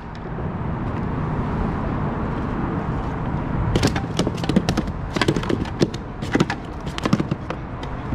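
Wind rumbling on the microphone, with a run of quick sharp knocks and clicks in the middle from handling in the boat.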